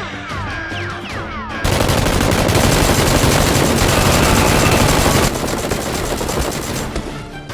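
Action-movie gunfire sound effects: a quick run of falling laser-like zaps, then about four seconds of loud, rapid machine-gun fire that starts suddenly and eases off near the end.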